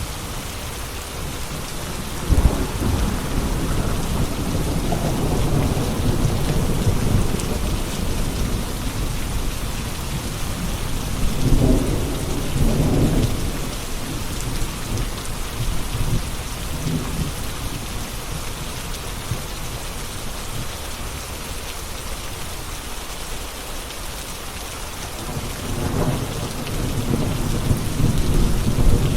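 Steady heavy rain hissing, with low rolls of thunder rumbling through it: one a couple of seconds in that lasts several seconds, another a little before the middle, and a third near the end.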